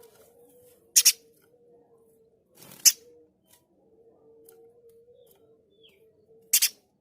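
Spiderhunter (pijantung gunung) giving short, harsh, rasping call notes: a double note about a second in, a single one near three seconds, and another double near the end. A faint steady hum runs underneath.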